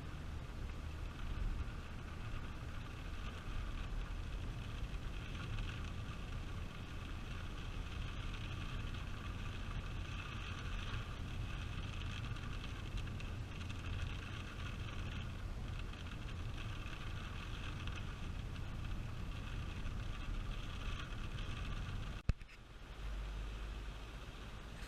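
Steady engine and road noise inside a moving car, a low rumble under a hiss. Near the end it breaks off for an instant and comes back as a steadier low hum.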